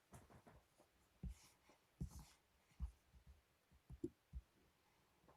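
Near silence in a small room, with a few faint, short soft thumps and clicks scattered through it.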